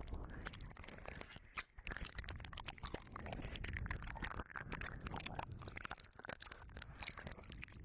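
Close wet mouth sounds and licking on the silicone ear of a 3Dio binaural microphone: a dense, irregular run of small wet clicks and smacks over a low rubbing rumble.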